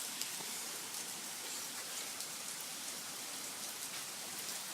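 Heavy rain pouring down in a steady hiss, with the patter of drops hitting surfaces. No thunder is heard.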